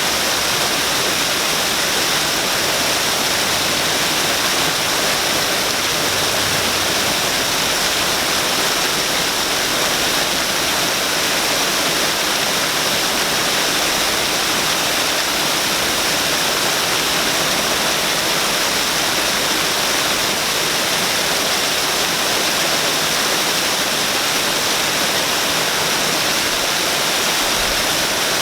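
Waterfall splashing steadily: an even, unbroken rush of falling water, strongest in the high hiss.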